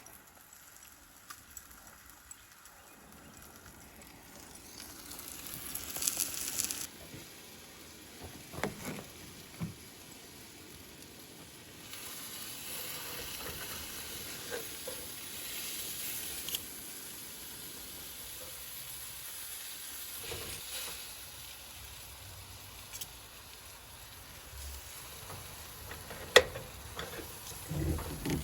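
Steak, onions and cheese sizzling in a cast iron skillet, the hiss swelling and easing, with a few sharp knocks, the loudest near the end.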